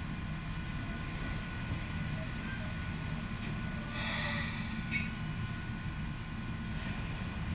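Ohmi Railway local train running on the track: a steady low rumble with faint steady tones, and a brief higher-pitched noise about four seconds in.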